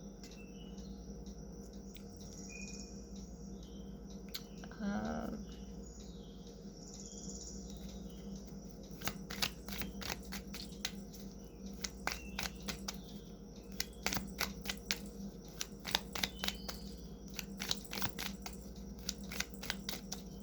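Tarot cards being shuffled and handled: a run of quick, sharp papery clicks starting about nine seconds in, over a steady low room hum.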